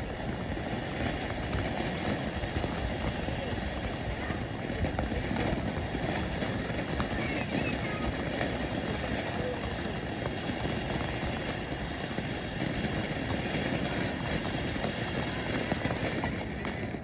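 Two cone fireworks fountains burning together, giving a steady hiss as they throw up silver spark sprays.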